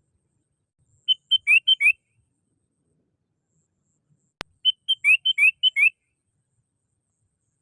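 Sooty-headed bulbul (kutilang) calling: two quick phrases of short whistled notes, one about a second in and one just past the middle, with a single sharp click just before the second phrase.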